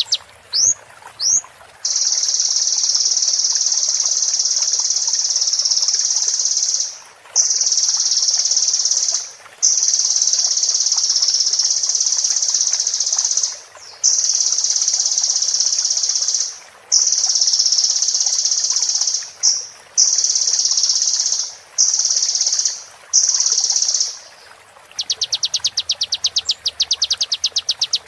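Sunbird (Indonesian 'kolibri') song: a few quick sweeping notes, then long unbroken high trills of two to five seconds each, separated by short pauses. Near the end it switches to a fast run of rapidly repeated notes.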